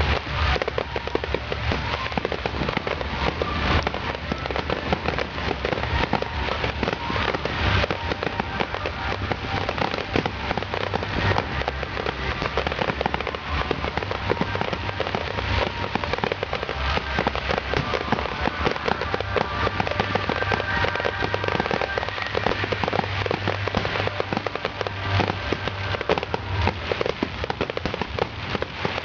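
Fireworks display: a dense, continuous crackle of many quick pops and small bangs.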